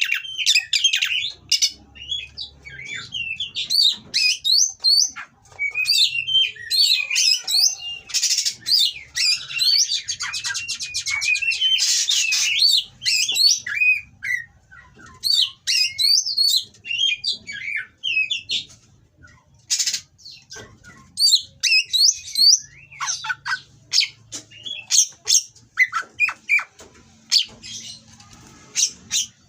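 Oriental magpie-robin (kacer) singing a fast, varied song of whistles and harsh notes in quick phrases, with a rapid buzzy trill about a third of the way through.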